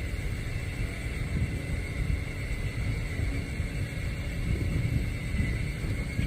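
Diesel switcher locomotive running, heard as a steady low rumble that swells and eases, with a constant high-pitched whine over it.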